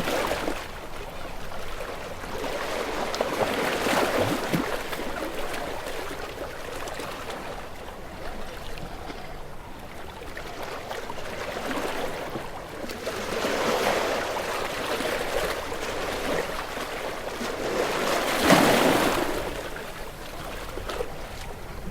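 Ocean waves washing ashore, a steady rush of surf that swells and ebbs. Waves break more strongly about four seconds in, past the middle, and near the end, and the last is the loudest.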